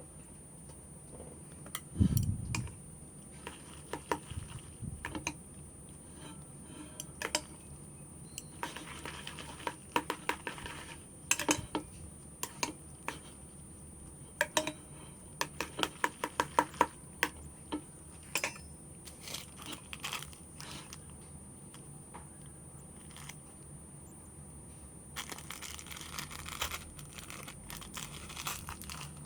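Close-up eating sounds: scattered sharp clicks and taps, in quick runs in the middle, with a low thump about two seconds in, then plastic wrapping crinkling over the last few seconds.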